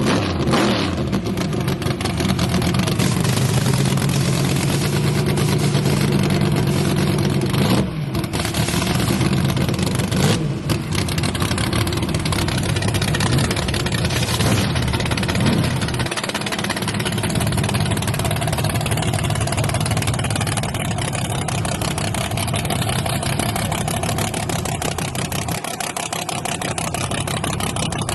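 Loud V8 drag-racing truck engines running at a mostly steady pitch, with brief dips about 8 and 10 seconds in and a change in the engine tone about halfway through.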